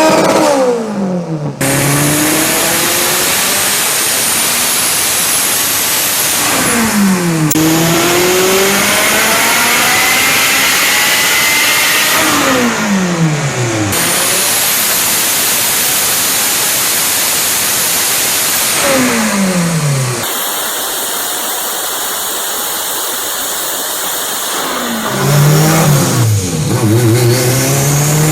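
Turbocharged Honda four-cylinder with a 62 mm Garrett turbo pulling hard through the gears: the engine note climbs for several seconds and then falls at each shift, about every six seconds. For the last few seconds it runs lighter before coming back on.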